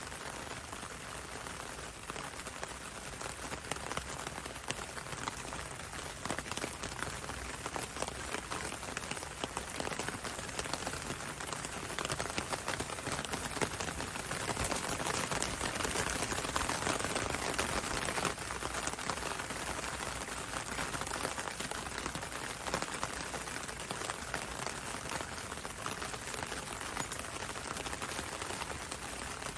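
Steady rain falling on a window and a road, with many close individual drops ticking over the hiss, swelling a little about halfway through.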